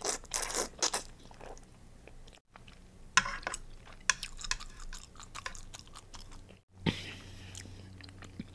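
Close-miked sounds of a person eating: chewing and biting with irregular sharp clicks and wet mouth noises. The sound drops out briefly twice.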